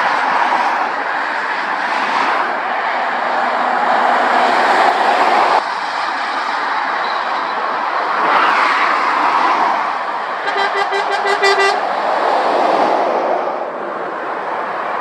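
Steady rush of motorway traffic, tyre and engine noise swelling and fading as heavy trucks and cars pass. A little past ten seconds in, a vehicle horn sounds a quick string of about six short toots.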